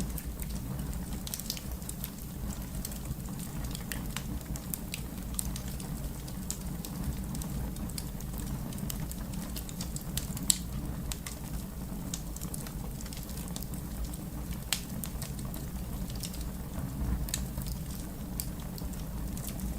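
Fire crackling: a steady low rush of burning with scattered sharp pops and snaps throughout, two louder pops about ten and fifteen seconds in.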